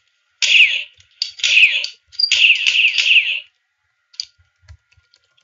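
Electronic toy-gun sound effect firing three bursts, each with falling tones.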